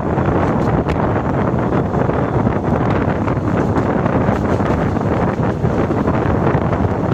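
Running noise of a moving train, with a steady rush of wind on the microphone over it.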